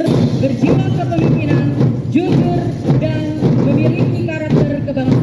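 Marching drum band playing, its drums beating a steady rhythm under a pitched melody line.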